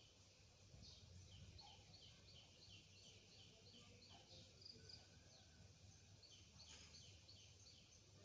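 Faint chorus of toads calling for mates: many short, high notes repeating several times a second, over a low steady hum.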